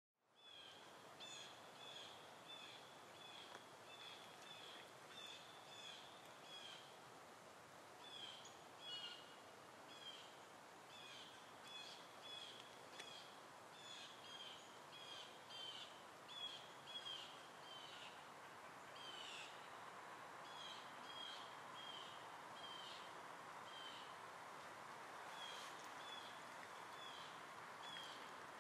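Faint small bird chirping over and over, short high notes about twice a second with a few short pauses, over steady outdoor background noise.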